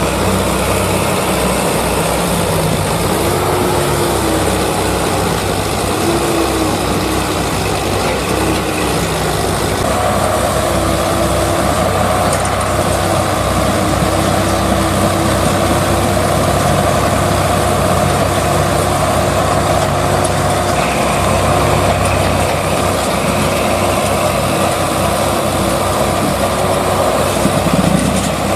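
Heavy vehicle engine running continuously, its pitch rising and falling in the first several seconds, then steadier and a little fuller from about ten seconds in.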